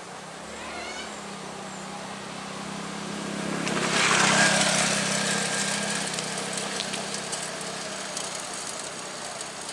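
KRL Commuter Line electric train passing: a steady low hum and rushing noise build to a peak about four seconds in, then fade slowly as it moves away.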